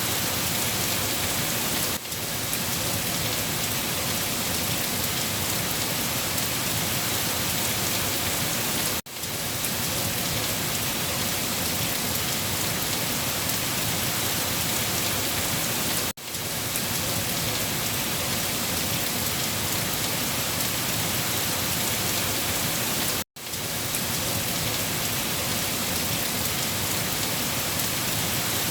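Steady rain falling, a continuous even hiss of drops on a surface, broken by a momentary dropout about every seven seconds.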